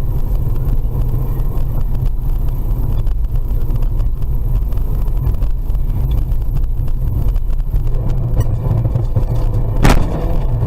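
Steady low rumble of a car driving, engine and road noise, with one sharp knock near the end.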